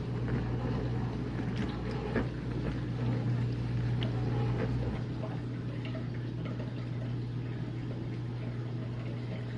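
Whirlpool dishwasher running, a steady motor hum with water swishing inside. About five seconds in the low rumble drops away as the cycle changes over, and the final drain starts.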